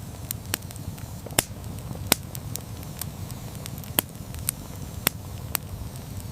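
Wood campfire burning: a low steady rumble of flames with irregular sharp crackles and pops, four of them louder than the rest.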